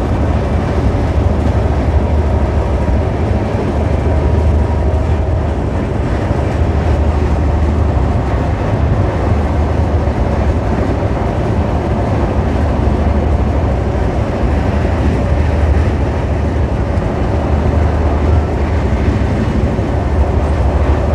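Moving Indian Railways passenger coach heard from the open window: steady running noise of wheels on rails, with a deep rumble that swells and eases every couple of seconds.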